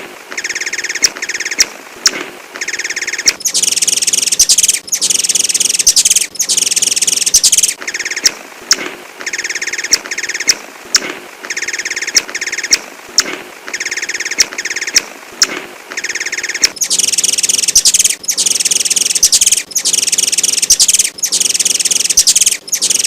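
Sunbird (the bird Indonesian keepers call 'kolibri') singing: runs of sharp high chirps, a few a second, broken by clusters of fast, dense, high-pitched trills lasting a second or two each, first a few seconds in and again from about two-thirds of the way through.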